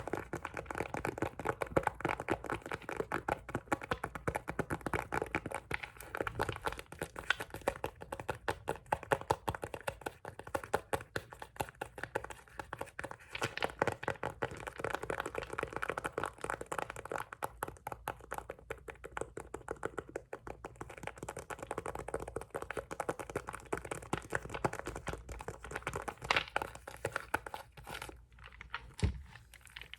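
Fast, dense tapping and scratching on glass nail polish bottles. The taps thin out near the end to a few separate knocks.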